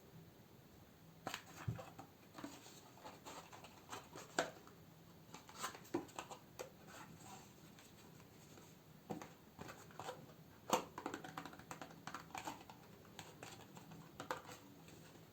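Candles being handled and sorted: irregular crinkles, taps and clicks of their plastic and paper wrappings, with a short pause midway.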